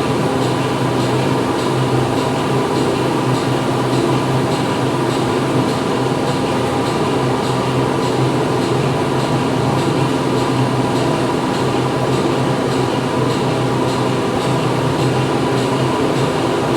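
Factory-floor machinery running: a steady, dense mechanical din with a constant hum, and a faint regular ticking about twice a second.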